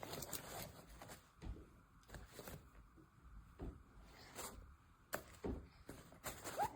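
Faint, scattered clicks, knocks and rustles of objects being handled.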